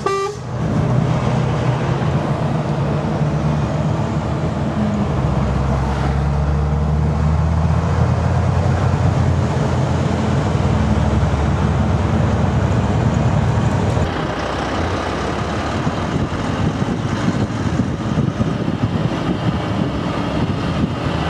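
Heavy truck engine running steadily under way, heard from inside the cab with tyre and road noise. About fourteen seconds in the engine hum drops away, leaving a rougher, even rush of traffic noise.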